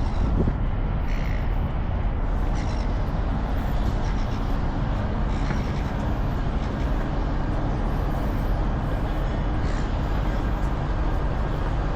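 Outdoor city ambience: a steady, loud rumble of road traffic, with a few short bird calls now and then.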